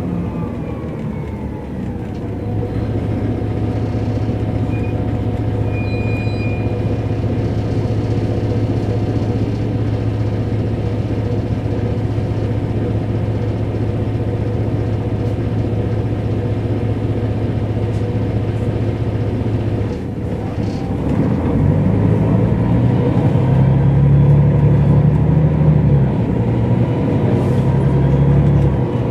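Mercedes-Benz O405 N² city bus heard from inside near the rear: its diesel engine and Voith automatic gearbox run steadily while the bus drives. About two-thirds of the way through, the sound dips briefly, then comes back louder with a shifting engine note as the bus pulls harder.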